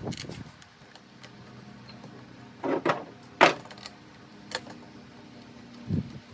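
A few sharp clicks and knocks of hard parts being handled and fitted together on a Stihl BR340 leaf blower under repair, the loudest about three and a half seconds in, over a faint steady hum.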